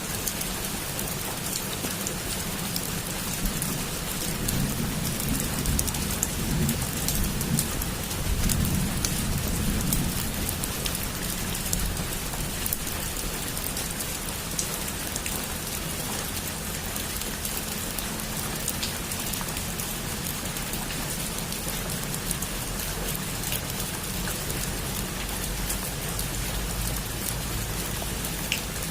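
Heavy rain falling on a roof: a steady hiss with many individual drops ticking. A low rumble swells from about four seconds in to about ten seconds in, then settles.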